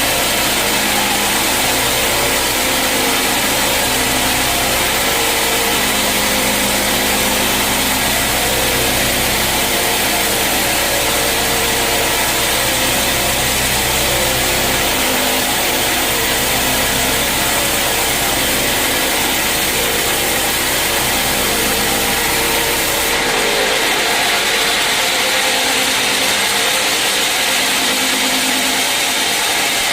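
Sawmill saw running and cutting through a mahogany log, a loud, steady mechanical noise. About 23 seconds in the sound changes abruptly and its low rumble drops away.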